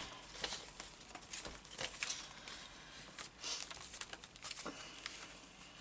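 Soft rustling of paper with scattered light ticks as a stack of small printed paper circles is sorted through by hand.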